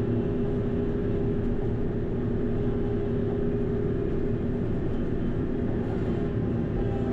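TYM T574 diesel tractor running steadily under work, its engine and hydrostatic hydraulic pumps making a constant hum with a steady whine.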